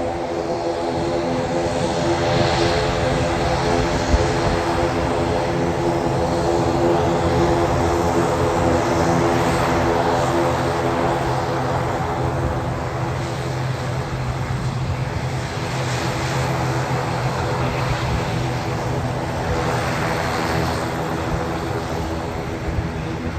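Twin turboprop engines and propellers of an ATR 42-600 running close by, a steady propeller drone made of many even tones over engine rush.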